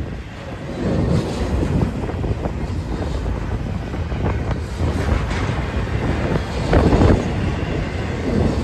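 BNSF double-stack intermodal freight train running past, a steady low, dense rolling noise of the train on the rails that grows louder about a second in.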